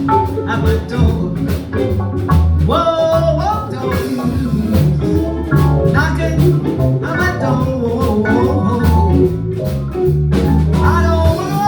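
Live blues band playing a wordless stretch of a blues number: a lead line sliding up and down in pitch over a steady bass line and drums.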